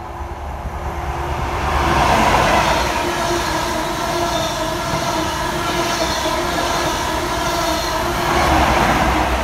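CrossCountry High Speed Train passing at close range: its Mark 3 coaches' wheels run along the rails in a steady rumble with a faint whine. It is loudest about two seconds in and again near the end.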